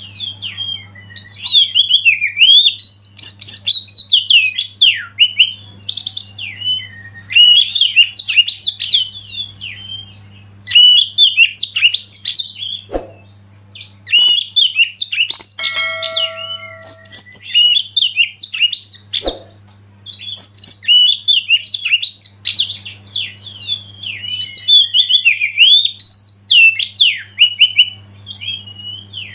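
Oriental magpie-robin (kacer) singing a fast, varied song of high whistles and chirps in almost continuous phrases with short pauses, over a faint steady low hum. Midway, two sharp clicks and a short held pitched note come between phrases.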